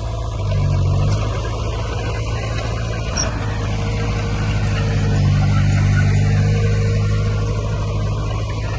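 Heavy diesel engine of an earthmoving machine running steadily under load, swelling louder briefly about half a second in and again for a couple of seconds about five seconds in.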